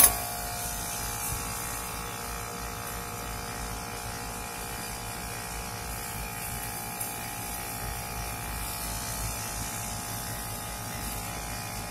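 Steady hum and buzz of a running rooftop air-conditioning unit, with several steady tones held throughout.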